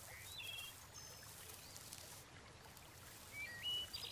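Faint river ambience of trickling water, with a few short bird whistles; the clearest is a stepped two-note call near the end.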